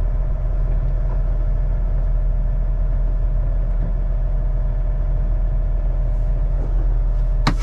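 Semi truck's diesel engine running steadily at low revs, heard from inside the cab as a deep rumble. A sharp click near the end.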